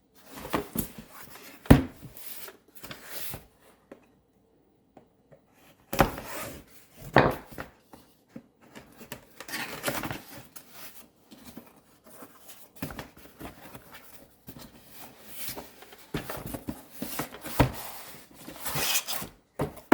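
Packaging being handled and unwrapped around a sewing machine accessory: irregular rustling and scraping with several sharp knocks, and a couple of seconds of silence about four seconds in.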